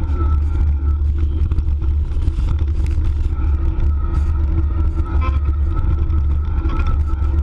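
Riding noise from an electric mountain bike with a Bosch mid-drive motor: a heavy, steady low rumble of wind and trail on the microphone, under a faint wavering whine.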